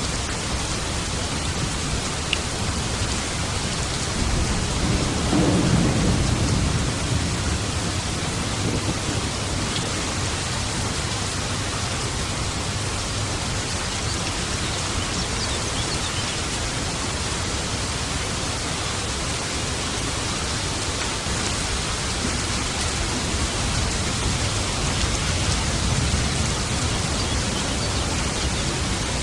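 Steady heavy rain with a low rumble of thunder swelling and fading about five seconds in, and a fainter rumble near the end.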